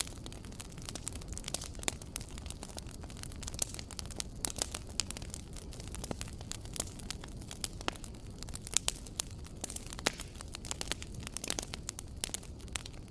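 Wood fire crackling, with frequent sharp pops and snaps over a low, steady rush of the flames.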